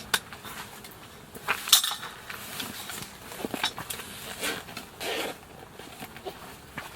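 Camp cookware and utensils clinking and knocking in irregular taps during cooking. The loudest knock comes a little under two seconds in.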